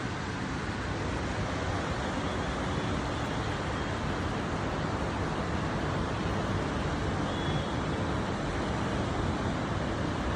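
Heavy rain falling, a steady even rush with no breaks.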